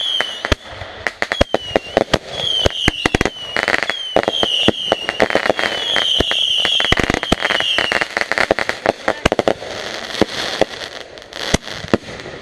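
Consumer fireworks going off: a rapid run of sharp bangs and crackles mixed with many short, high whistles that each dip in pitch. The bangs and whistles are densest through the first eight seconds and thin out to scattered pops near the end.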